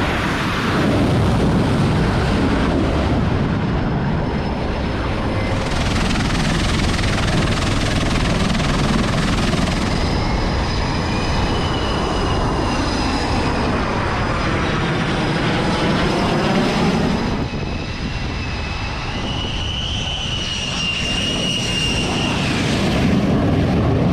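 Jet aircraft engines running loud, a dense roar with a high turbine whine that glides up and down in pitch. The sound changes abruptly several times, as if cut between shots.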